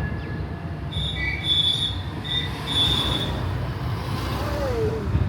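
Low running rumble of a small tourist road train in motion. From about a second in, broken high-pitched squeals come for about two seconds, then a short falling tone sounds near the end.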